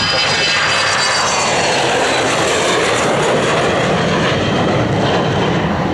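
Airliner passing close, its engines loud and steady with a high whine that slowly falls in pitch.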